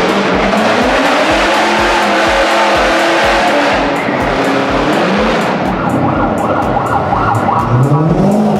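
Car engines revving, rising and falling in pitch several times, over background music with a steady beat.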